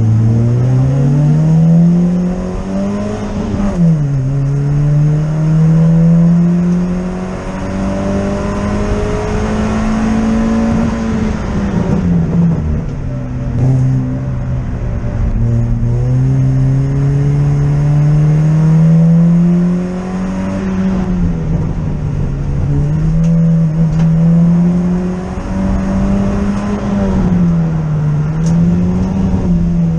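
Ford Fiesta Zetec rally car's four-cylinder engine, heard from inside the cabin, accelerating hard up through the revs with gear changes about four and twelve seconds in. After a long pull it rises and falls through the corners in the second half.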